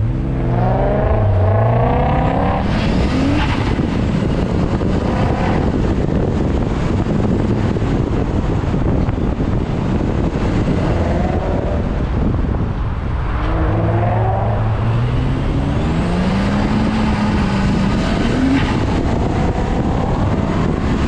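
Car engine pulling hard from a standing launch at the start of an autocross run, its pitch climbing for about two seconds, then rising and falling again and again as the throttle is worked through the cone course, over a steady rush of road and wind noise.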